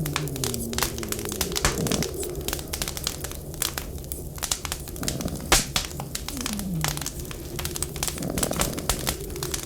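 Wood fire crackling with many sharp pops over a steady low rumble of wind. A few times, at the start and again in the second half, the wind howls in a low tone that slides down in pitch.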